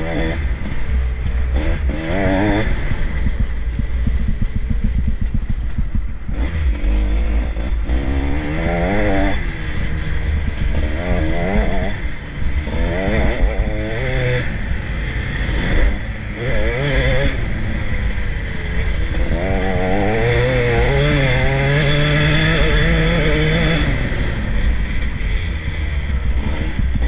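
Motocross bikes racing, engines revving up and dropping back again and again as they accelerate and shift gear, over a steady low rumble.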